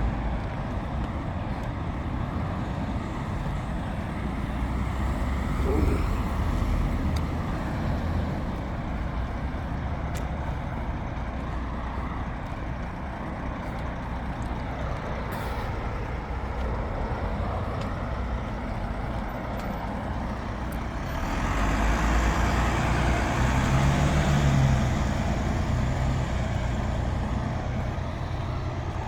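Road traffic passing close by, a steady stream of vehicle and tyre noise. From about two-thirds of the way in, a heavy vehicle goes by with a low engine drone, the loudest pass.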